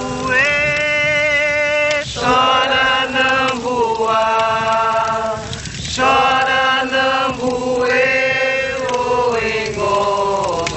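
Voices chanting a repeated refrain in long, steady held notes of about two seconds each, with short breaks between phrases.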